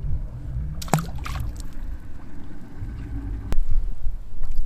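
Wind buffeting the microphone as a rough, uneven low rumble. There is a short sharp sound about a second in and a single click about three and a half seconds in.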